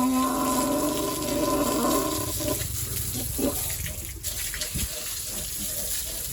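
Water running and splashing from a hose as a pig pen is washed down. A steady pitched hum is heard along with it and stops about two seconds in.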